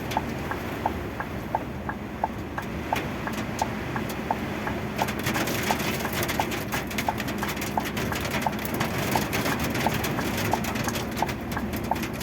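Heavy rain and wind noise, with many sharp drop impacts that grow denser about five seconds in. Over it runs a steady, even ticking about twice a second.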